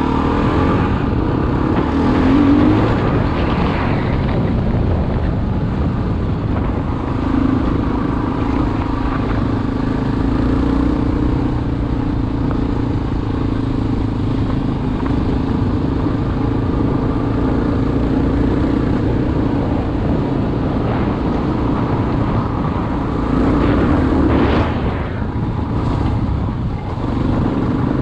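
Single-cylinder four-stroke dual-sport motorcycle engine running steadily under way, with a dense low rumble; the revs rise briefly near the start and again near the end.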